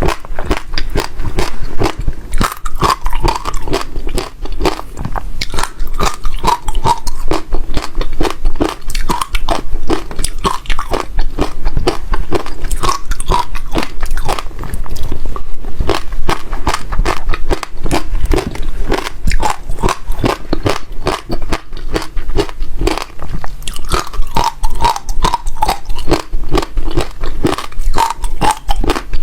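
A person chewing and biting crunchy passion fruit seeds, a rapid, dense run of crackling crunches throughout.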